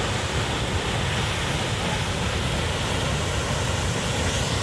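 Düden Waterfall's water falling and rushing in a steady, unbroken noise with a heavy low rumble.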